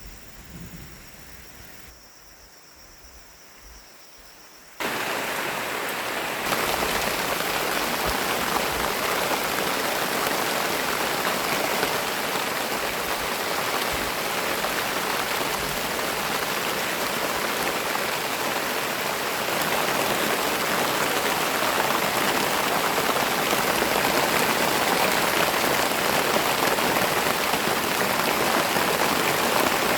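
Heavy rain falling as a steady, dense hiss. It comes in suddenly about five seconds in after a quieter opening, and grows louder again a second or so later.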